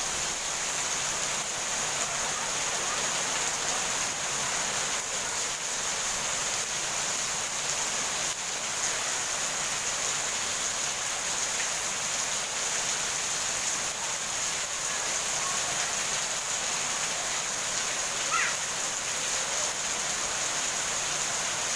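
Heavy rain falling steadily as an even hiss, with no thunder. One faint, brief chirp comes about eighteen seconds in.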